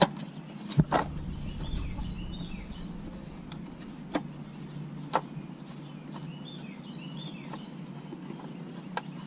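Scattered sharp clicks and knocks of a vacuum cleaner's plastic housing and parts being handled and pried apart during disassembly, with a steady low hum. Birds chirp faintly in the background twice.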